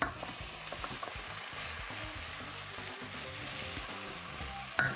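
Beef bones and softened vegetables sizzling in hot olive oil in a stainless steel pot while being stirred with a spoon, with small clicks and a short louder knock near the end.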